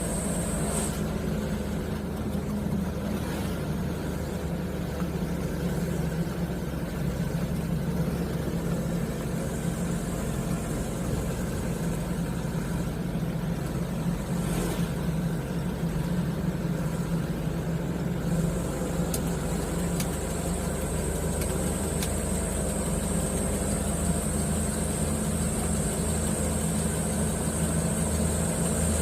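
Mitsubishi Canter truck's four-cylinder diesel engine running steadily while the truck is driven. A thin high whine joins in about two-thirds of the way through.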